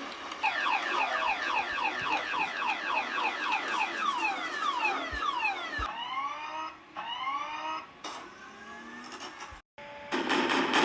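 Cartoon-style shooting sound effects: a rapid string of short falling-pitch 'pew' tones, about four a second, that slow and scatter after about six seconds. A steady engine-like drone starts near the end.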